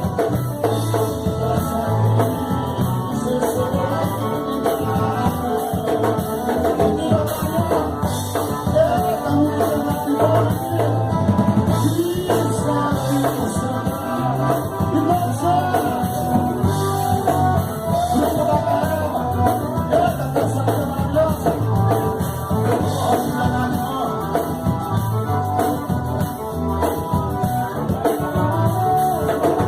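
Band music with a drum kit keeping a steady beat and a melody line over it.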